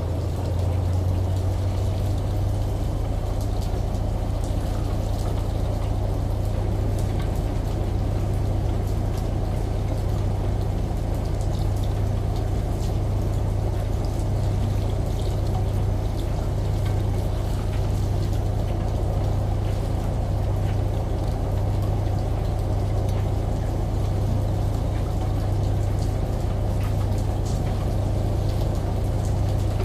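Washing machine running with water pouring in: a steady low hum that swells gently every second or two under a constant rush of water.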